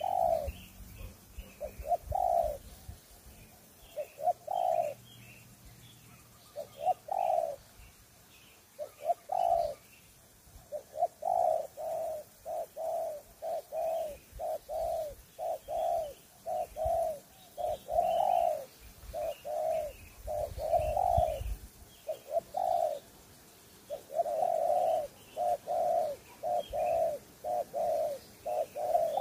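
Spotted dove cooing: short, low coos, a few spaced apart at first, then coming in quick runs after about ten seconds. Faint chirps of small birds sound higher up.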